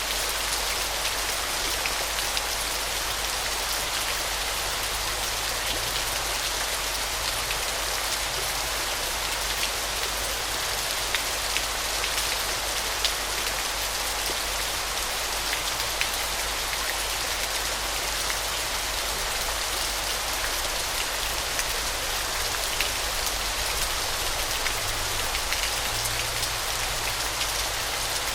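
Waterfall: a steady rush of falling, splashing water, with scattered ticks of droplets.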